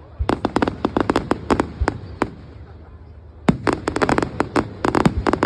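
Fireworks crackling in rapid volleys of sharp cracks, with a pause of about a second around the middle and a couple of deep thumps in the first two seconds.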